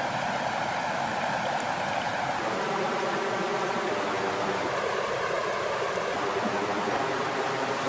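Water flowing steadily with an even, continuous rushing sound.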